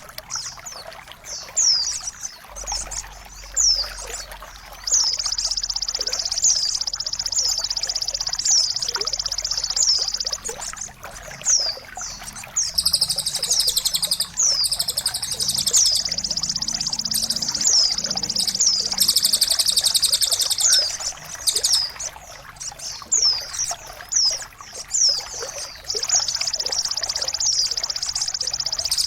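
Recorded songbird song used as masteran for caged birds: long phrases of a high, continuous trill with many quick falling whistles, pausing briefly twice and starting again.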